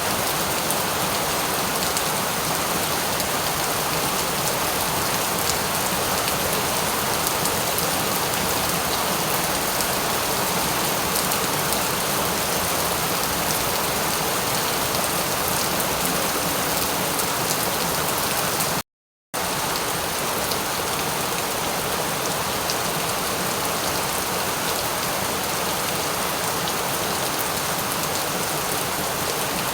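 Steady, dense rainfall, an even hiss of many drops with fine individual drop ticks. About two-thirds of the way through it cuts out to silence for about half a second, then resumes unchanged.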